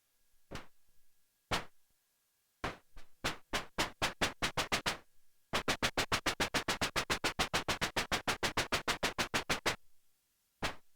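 Behringer JT-4000M Micro synthesizer playing a noise-based percussive preset: short unpitched hits, first singly, then in a loose cluster, then in a fast even roll of about ten hits a second lasting about four seconds.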